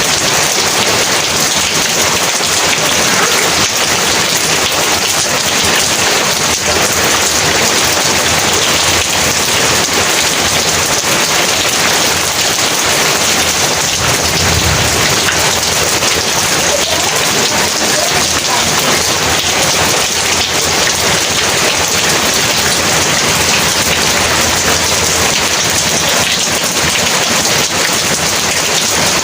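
Heavy rain pouring steadily, with a low rumble of thunder about halfway through.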